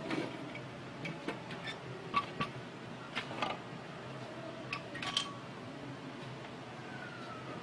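Irregular sharp clicks and taps of small hard parts being handled, spread over the first five seconds or so, over a faint steady hum.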